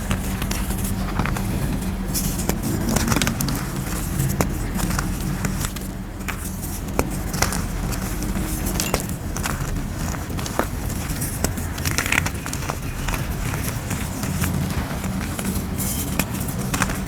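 Molded grey gym chalk shapes being crushed and crumbling, a dense run of sharp crunches and crackles, over a steady low hum.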